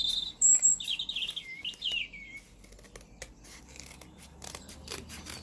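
Songbirds chirping and trilling for the first couple of seconds, from a played woodland birdsong recording, with scattered sharp clicks of scissors snipping through card.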